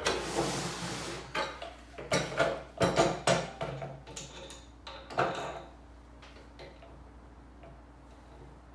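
Metal parts of a portable bandsaw and its stand scraping and clanking together as the stand is fitted on: a short scrape, then a quick run of metallic knocks and clinks, and one more knock a couple of seconds later.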